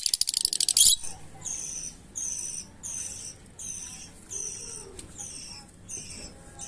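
Fischer's lovebirds chirping: a rapid burst of sharp clicks in the first second, then a steady series of short, high chirps that drop in pitch, about one every 0.7 seconds.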